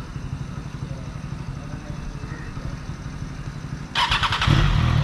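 A Triumph Trident motorcycle's inline-three engine is started about four seconds in: a brief crank, then it catches and runs loud and steady. Before that, a lower engine idles in the background.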